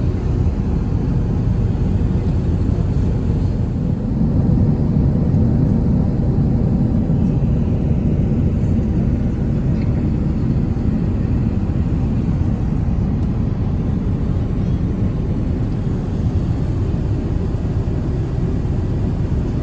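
Steady low rumble inside the cabin of an Airbus A380 airliner, the engine and airflow noise heard from a passenger seat. It grows a little louder about four seconds in.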